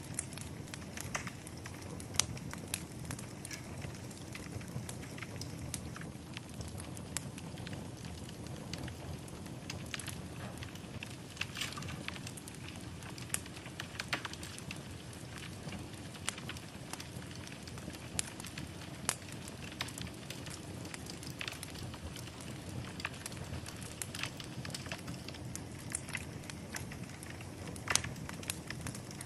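Wood fire burning in a fireplace, with a steady low rush of flames and irregular crackles and pops, the loudest of them about two seconds in and near the end.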